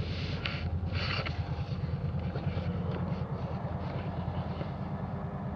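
Off-road vehicle's engine running steadily under load, heard close up, with a few short hissing bursts in the first second and a half.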